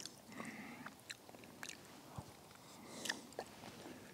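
Faint close-up chewing of a mouthful of huckleberry crumble with cream, with scattered soft clicks of the mouth.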